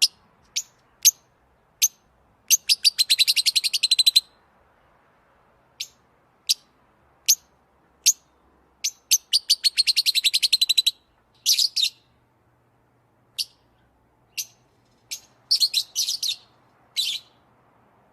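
A bird chirping: single sharp, high chirps about half a second to a second apart, broken twice by a fast trill of rapid repeated notes lasting about one and a half to two seconds, the second trill about halfway through.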